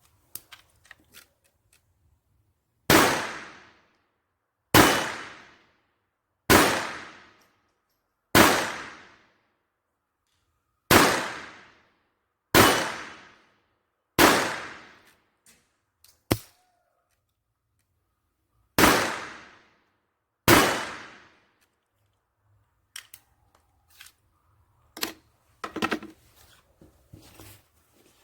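Taurus PT-22 .22LR pistol firing nine Winchester Hyper Speed high-velocity hollow-point rounds one at a time, each shot a sharp crack with a ringing tail, spaced about one and a half to four and a half seconds apart. A lighter sharp click falls between the seventh and eighth shots, and small handling clicks and rattles of the pistol follow the last shot.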